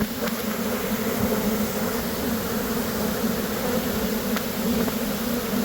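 A swarm of honey bees buzzing in a dense, steady drone around a hive just cut out of a roof.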